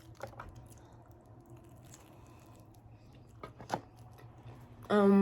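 Faint chewing and mouth sounds of someone eating pizza, with a few soft clicks. A brief loud burst of voice comes near the end.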